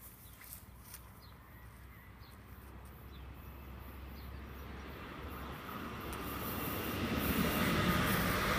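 Electric passenger train approaching and passing close by, its running and wheel noise on the rails growing steadily louder and loudest near the end.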